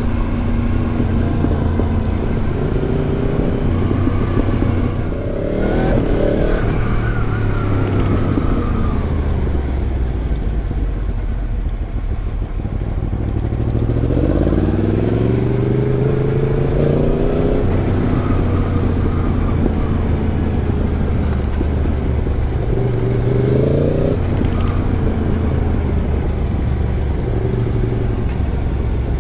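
Yamaha MT-10's crossplane inline-four running through an Arrow exhaust while the bike is ridden: mostly steady cruising, with three bursts of acceleration where the engine note rises, about five seconds in, midway, and near the end.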